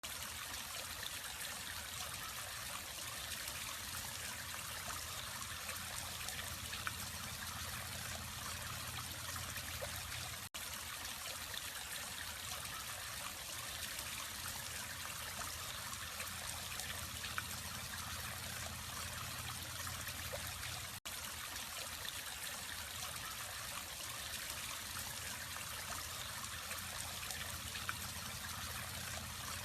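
Water trickling and splashing steadily in a small decorative waterfall, with a low steady hum underneath. The sound drops out for an instant twice, about ten and about twenty seconds in.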